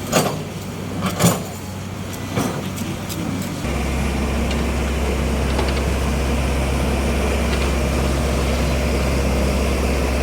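Heavy vehicle engine running steadily, with a few sharp knocks in the first few seconds; a deeper, louder hum sets in about three and a half seconds in.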